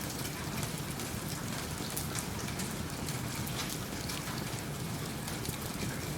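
Steady rain falling, with frequent small ticks and crackles over it from rain and a wood fire in a fireplace.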